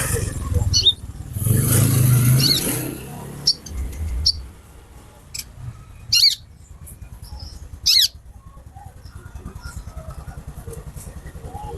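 Female sunbird (konin) giving short, sharp, high chirps that each fall in pitch, repeated every second or so and loudest about six and eight seconds in. Over the first three seconds a passing motor vehicle makes a loud rushing noise.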